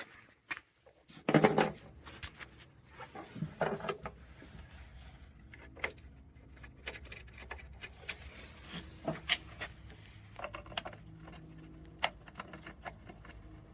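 Scattered metallic clicks, clinks and knocks of hand work with tools and loose bolts inside a car, the loudest a short clatter about a second and a half in.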